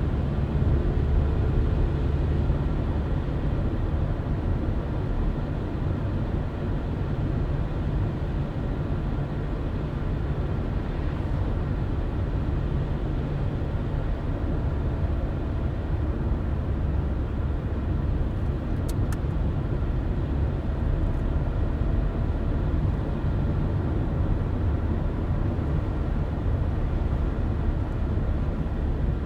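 Car driving at a steady speed: a continuous low rumble of engine and tyres on the road, with two faint ticks about two-thirds of the way through.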